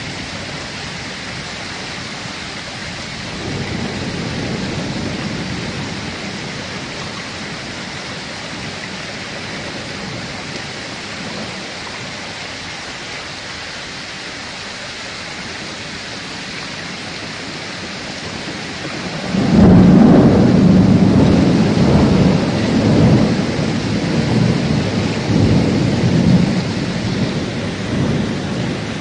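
Heavy rain falling steadily, then a long, loud rumble of thunder that begins about two-thirds of the way in and rolls on in waves.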